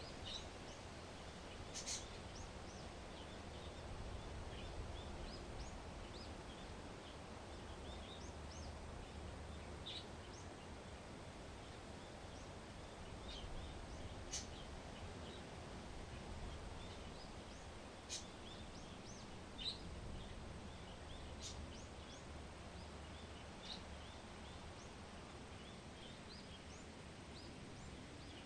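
Many faint, short bird chirps over a steady low outdoor rumble, with a few sharp clicks scattered through.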